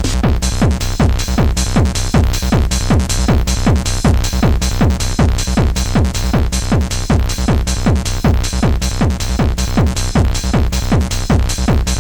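1990s Scottish hardcore / bouncy techno dance music: a fast, steady kick drum about three beats a second, each hit falling in pitch, under a continuous bass and synth line.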